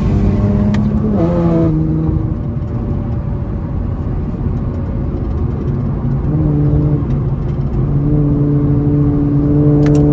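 Tuned Infiniti Q50's 3.0-litre twin-turbo V6 running at highway speed under road noise. The engine note drops about a second in, then holds a steady lower drone.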